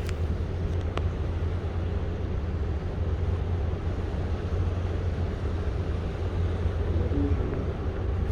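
Steady low rumble with a rushing hiss over it, the sound of a ship under way at sea in wind. A single faint click about a second in.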